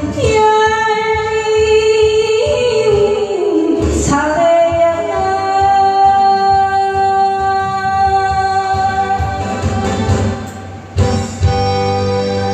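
Korean trot song: a female voice with instrumental backing, holding long notes, with a brief dip in the music about ten seconds in.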